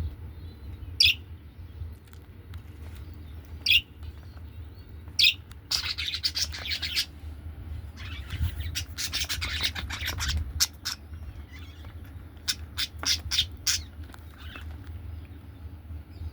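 Budgerigar chirping and chattering: a few sharp single calls, then two long stretches of fast warbling chatter, then a quick run of short chirps. A steady low hum runs underneath.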